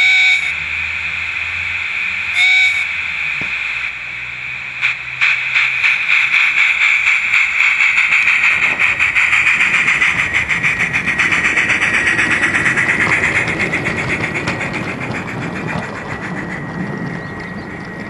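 Gauge 1 J94 model locomotive's sound card playing simulated steam sounds: two short whistle toots, then a steam hiss, and from about five seconds in a rhythmic chuffing that builds, holds and slowly fades, with a low rumble growing under it in the second half.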